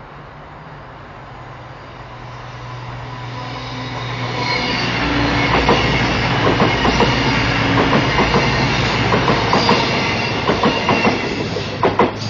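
Class 221 Super Voyager diesel multiple unit approaching and passing at speed. Its sound builds over a few seconds, then the wheels click rapidly over rail joints as the carriages go by, over a steady low engine hum.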